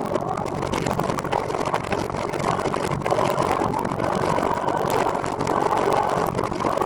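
Steady, continuous rolling noise of a recumbent trike being ridden along a road, with no pauses or sudden sounds.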